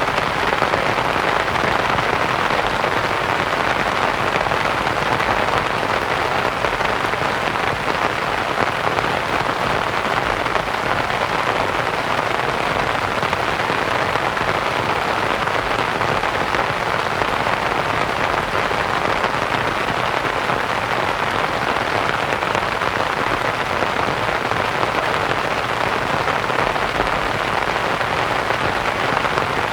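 Steady rain falling on a canvas tent, mixed with a smooth white-noise hiss.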